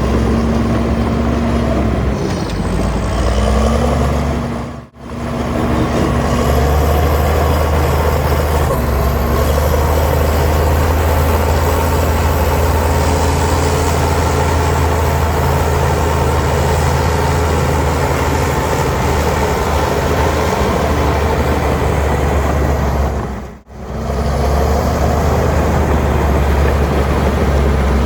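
Heavy diesel earthmoving machinery running steadily under load. The sound drops out briefly twice, about five seconds in and again near the end.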